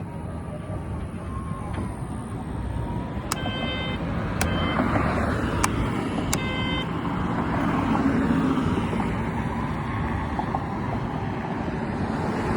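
Outdoor traffic noise with vehicles passing, broken by several short, high beeps.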